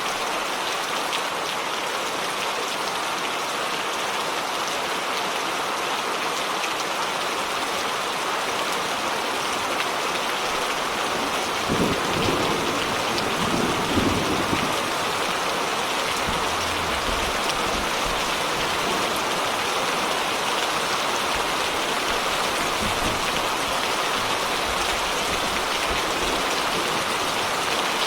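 Steady rain hissing down in a thunderstorm. About halfway through, a roll of thunder comes in with two louder claps close together, then rumbles low and fades over several seconds.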